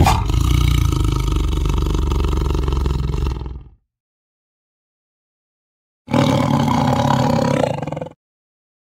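Tiger roaring twice: a long roar of about three and a half seconds, then a shorter one starting about six seconds in.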